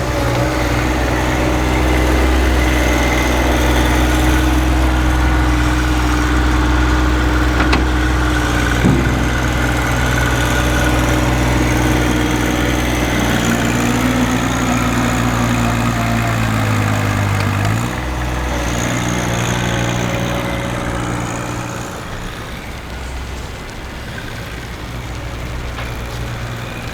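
A heavy vehicle's engine running at idle close by, a steady low hum that shifts in pitch and drops away suddenly about two-thirds of the way through, then fades further.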